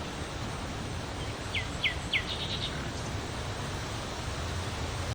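A small bird calls: three quick chirps, each falling in pitch, followed by a short rapid twitter, over a steady background rumble and hiss.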